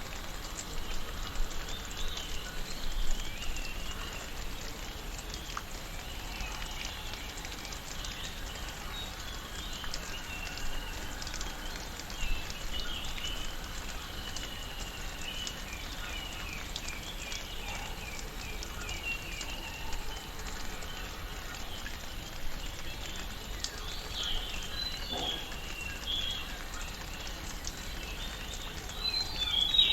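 Tropical rainforest ambience: several birds chirping and calling over a steady hiss, with runs of quick repeated calls a little past halfway and again near the end.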